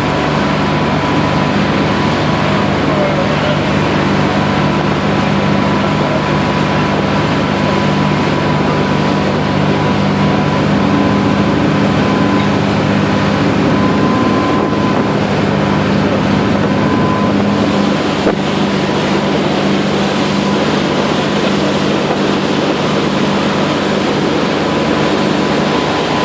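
A tour boat's engine running steadily under way: a constant low drone with a steady rushing noise over it.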